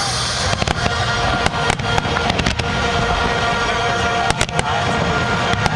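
Fireworks display: a rapid, irregular series of sharp bangs and cracks over a steady rumble, with music playing underneath.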